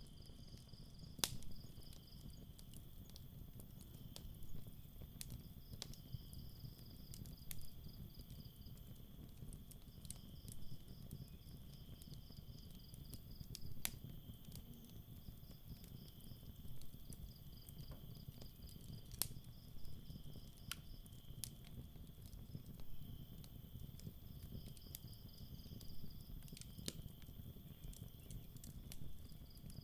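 Night crickets chirping in pulsed trains of a couple of seconds over a steady insect trill, with scattered sharp pops and crackles from a wood campfire and a low rumble beneath.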